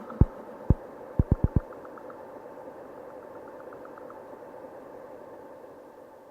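Electronic music fading out at the end of a track: a few last drum-machine kick hits in the first second and a half, then a sustained synthesizer tone with faint ticking that fades away near the end.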